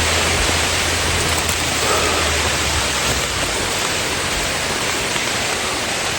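Steady rain falling, an even dense hiss, with a low rumble under it that fades out about three seconds in.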